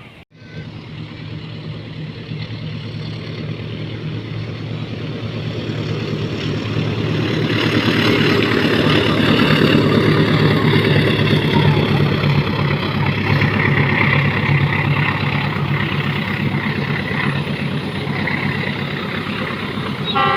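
Diesel locomotive-hauled train approaching and passing: a steady low engine drone under rising wheel-on-rail noise, loudest about halfway through and easing toward the end.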